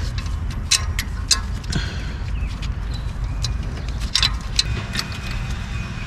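Socket wrench and metal tools clicking and clinking irregularly against the engine while working loose a stiff nut on the EGR valve, over a steady low rumble.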